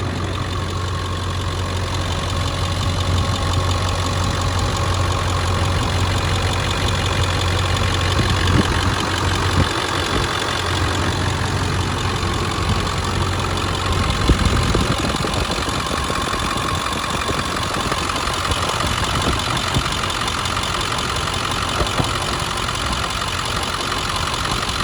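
2001 Ford F-250's 7.3 L Power Stroke turbo-diesel V8 idling steadily with the hood open, heard under the hood during a blow-by test that shows the engine super healthy. A couple of short knocks sound about a third and halfway through.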